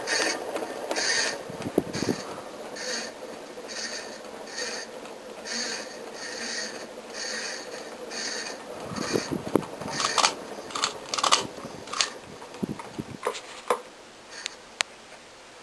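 Worn plastic Emerson ceiling fan turning with a rhythmic scraping swish about once every three-quarters of a second, the wobble and noise of shot bearings and broken blades. In the later part the rhythm gives way to a run of irregular sharp clicks and knocks.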